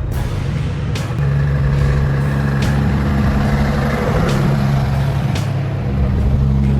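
Big trucks' diesel engines running with a steady low drone, with a few sharp clicks through it.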